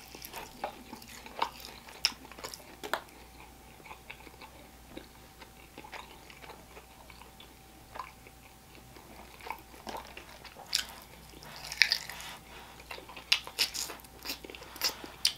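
Close mouth sounds of biting into and chewing a fried chicken wing coated in a sticky garlic glaze: scattered sharp crunches and clicks, busier in the last few seconds as he takes another bite.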